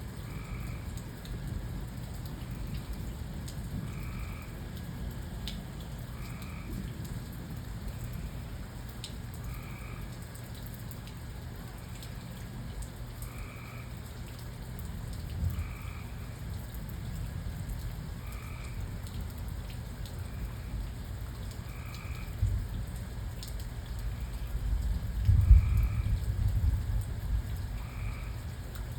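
Steady rain with a frog calling in short croaks every two to three seconds. A low rumble of thunder swells and peaks near the end.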